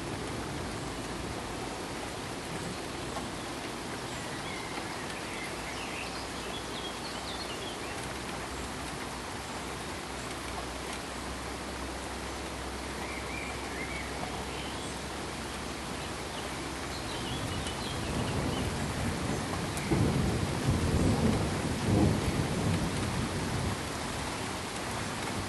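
Steady rain-like hiss with a low rumble of thunder that swells in uneven surges about two-thirds of the way in and eases off near the end. Faint high chirps are heard now and then.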